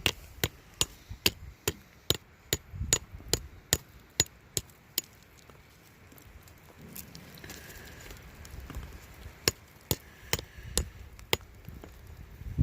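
A rock hammer striking a quartz and sulfide rock exposure to break off samples. There is a run of quick, sharp strikes, about two or three a second, then a pause of a few seconds, then several more strikes.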